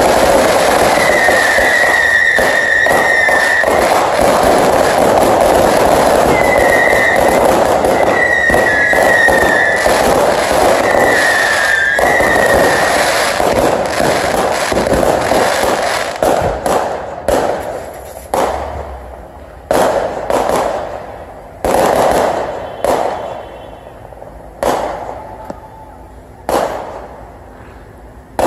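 Aerial fireworks finale: a dense, continuous barrage of crackling and bursts, with several high whistles over it in the first half. After about fifteen seconds it thins into single loud bangs a second or two apart, each trailing off in an echo.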